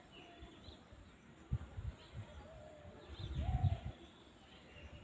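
Faint bird calls, a soft cooing call and a few high chirps, over quiet outdoor ambience. Low thuds come about one and a half seconds in, and a longer patch of low rumbling thumps comes just past the middle.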